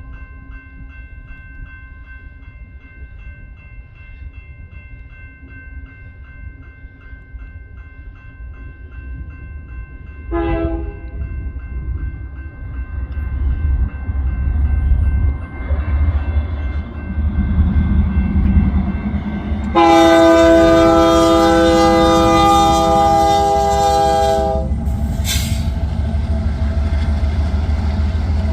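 A bell rings with steady repeated strikes. About ten seconds in, a diesel locomotive horn gives a short toot, and the low rumble of the approaching diesel locomotives builds. About twenty seconds in, the horn sounds one long blast of about five seconds, the loudest part, and the locomotives keep rumbling past.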